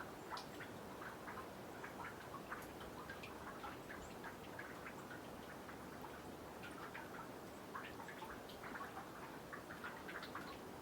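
Meltwater from snow dripping off a boardwalk into a nearly frozen pond: faint, irregular plinks, several a second, over a steady faint hiss.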